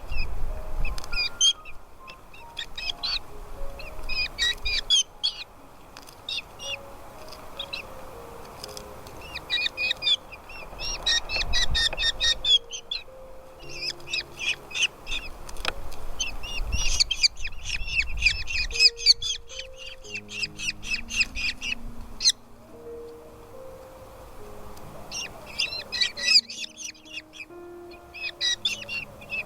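Nestling birds calling in bursts of rapid, high, repeated chirps, the begging calls of chicks in the nest, over background music with a slow stepped melody.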